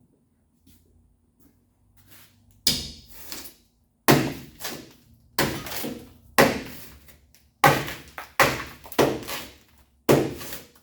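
Series of heavy blows on a 1936 Chevy's sheet-metal body, roughly one a second and irregular, starting about three seconds in: the hardened amber insulation inside the panel is being pounded out.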